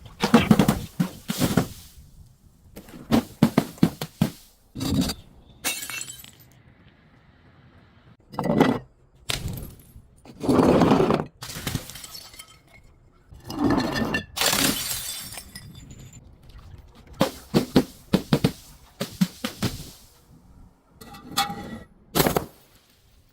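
Glass bottles being broken and crushed: a series of separate cracking, crunching bursts every second or two, some short and sharp, some drawn out for about a second.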